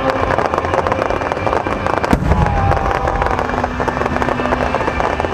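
Fireworks display: dense, continuous crackling from many bursting shells, with one louder boom and rumble about two seconds in.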